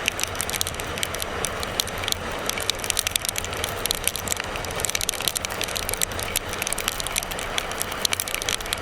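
Wind rushing over a motorcycle rider's microphone on the move, with a low steady engine and road rumble underneath and many sharp crackling ticks on top.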